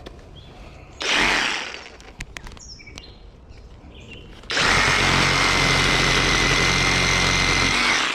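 Skil cordless reciprocating saw (SawZall) cutting through a thick tree branch. It starts a little past halfway, runs steadily for about three and a half seconds with a high whine, then stops. Earlier there is a brief rustle and a few clicks.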